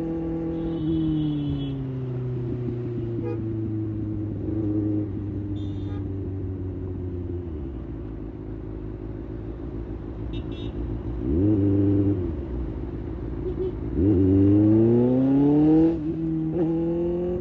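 2024 Kawasaki ZX6R's inline-four engine: the engine note falls at first as the bike slows, runs steady at low revs, rises briefly about two-thirds through, then climbs in a strong rev near the end before dropping suddenly at a gearshift.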